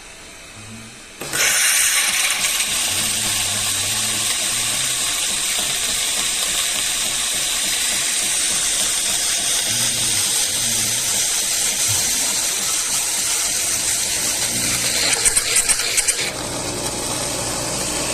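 Philips 3200 Series espresso machine's ceramic burr grinder grinding coffee beans, a loud, steady rattling whir that starts suddenly about a second in and stops after about fifteen seconds, with a few clicks just before it stops. A quieter, lower running sound from the machine follows.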